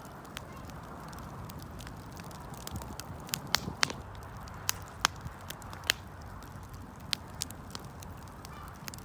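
Wood fire burning, with irregular sharp pops and snaps over a steady low background noise.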